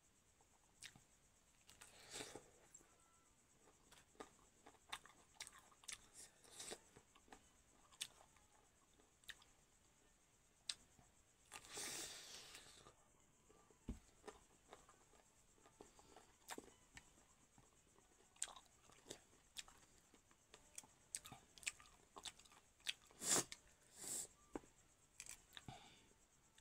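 Close-up eating sounds, quiet overall: a person biting and chewing raw cucumber slices and noodles, many short crisp crunches spread irregularly through, with a longer noisy stretch of about a second partway through.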